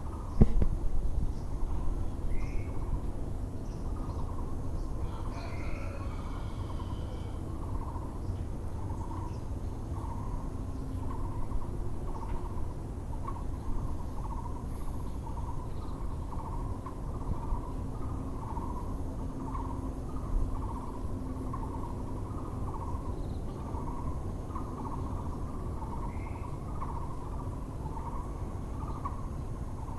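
Muller's barbet (Taiwan barbet) calling, a low hollow note repeated evenly about once a second, over a constant low background rumble. A sharp loud knock sounds about half a second in, and other small birds chirp now and then.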